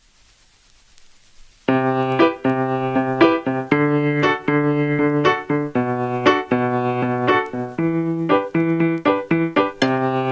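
Faint hiss, then from about a second and a half in, background music played on a piano or electric piano: a steady run of notes a few per second.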